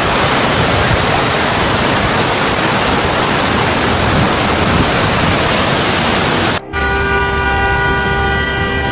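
Floodwater rushing in a steady, loud roar. About six and a half seconds in it cuts off abruptly, and a steady droning tone of several held pitches takes over.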